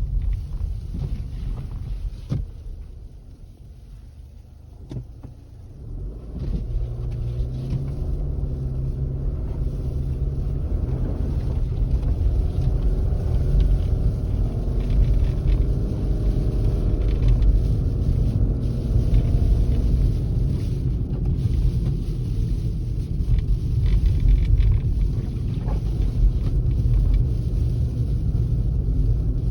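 Wind rumbling on the microphone. About six seconds in, a motor vehicle engine's drone comes in, wavering in pitch, and the sound stays loud to the end.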